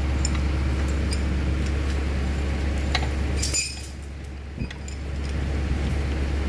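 Metal chain clinking and rattling a few times, loudest around the middle, over a steady low mechanical hum.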